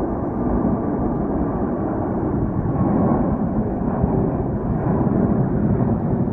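Airbus A380's four Engine Alliance GP7200 turbofans at takeoff power, a deep, steady jet rumble building slightly in level.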